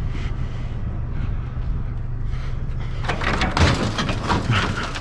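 Pieces of scrap being shifted and set into place in a loaded pickup bed, with a quick run of clattering knocks in the second half over a steady low hum.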